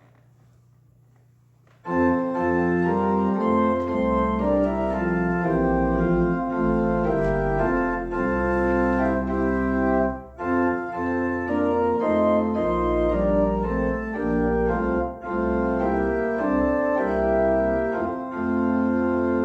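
Church organ starts playing about two seconds in, after faint hum: sustained full chords over deep held bass notes, with short breaks between phrases.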